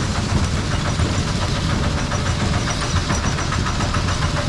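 Motor-driven rice-processing machine running steadily, with a rapid, even knocking over a low rumble.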